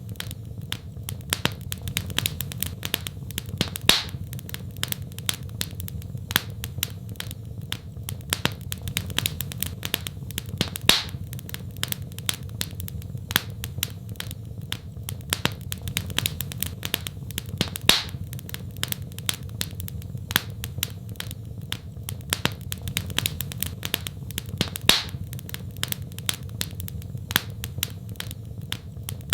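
Wood fire crackling: many small, rapid pops and snaps, with a louder, sharper pop about every seven seconds, over a steady low rumble.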